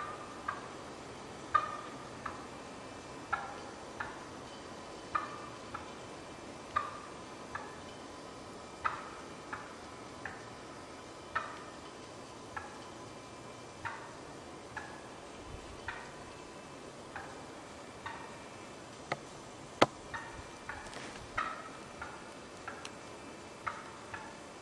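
Wild turkey clucking: short, sharp single notes repeating about every second and a half, often in pairs, with one louder note near twenty seconds in.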